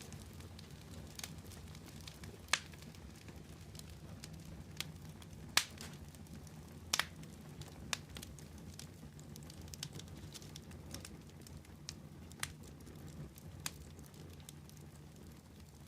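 Wood fire burning, with scattered sharp crackles and pops over a low steady rumble of the flames; the loudest pops come in the first half.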